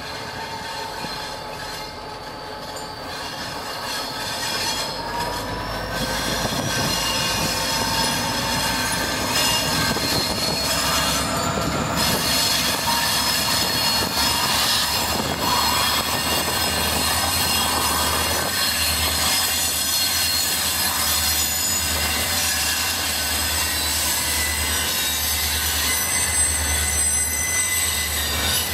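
Slow-moving freight train hauled by Norfolk Southern diesel locomotives, approaching and passing close by: the diesel engines' low hum grows louder as they draw near, with steady high-pitched wheel squeal as the train rounds a curve.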